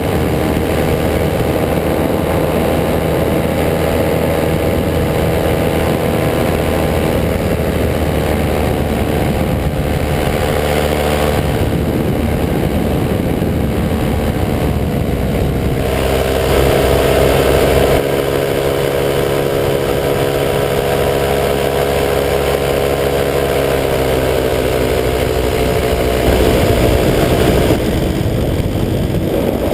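185 cc EcXtreme paramotor's two-stroke engine and propeller running steadily in flight, the engine note shifting in pitch as the throttle changes. It grows a little louder briefly around halfway and again near the end.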